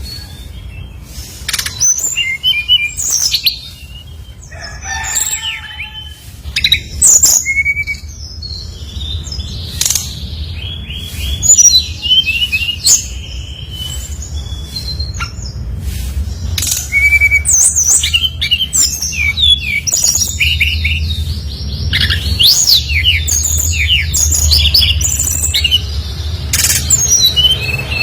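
Brown-chested jungle flycatcher singing continuously: rapid, varied whistled phrases, trills and chirps that include mimicked notes, with short sharp clicks among them, over a low steady hum.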